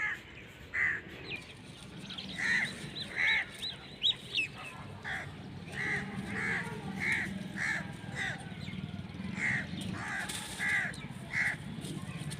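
Birds calling: about a dozen short, harsh calls at irregular intervals, with high chirps from about two to four and a half seconds in.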